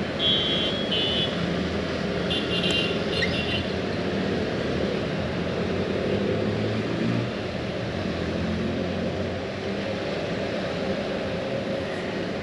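Steady low rumble of a running vehicle engine with a droning hum. A few short high-pitched chirps come in the first four seconds.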